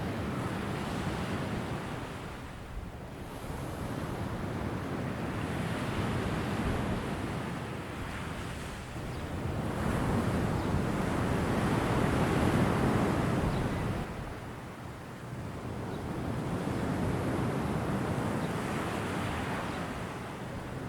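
Sea waves surging and washing in slow swells, about four rises and falls, the loudest about halfway through.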